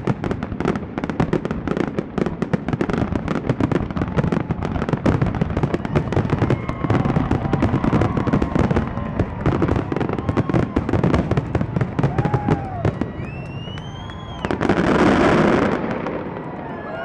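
Fireworks finale: a rapid, continuous barrage of bangs and crackles that thins out after about thirteen seconds, then one louder rushing burst near the end.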